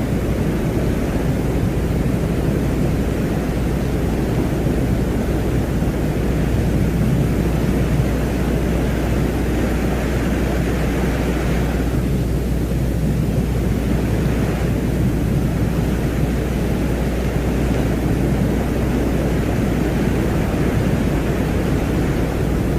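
Space-ambience drone presented as the sound of Venus: a steady low rumbling noise over a constant deep hum, with a fainter hiss higher up that slowly swells and fades.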